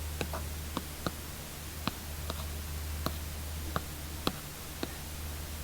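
Apple Pencil tip tapping on an iPad screen: about nine sharp, irregular clicks over a steady low hum.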